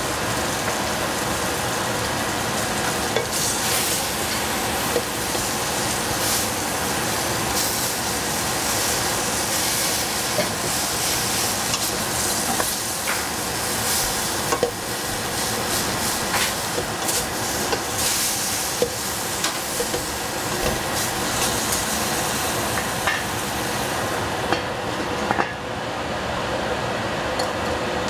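Food sizzling steadily in a hot pot while it is stir-fried, with short clicks and taps from the stirring utensil now and then.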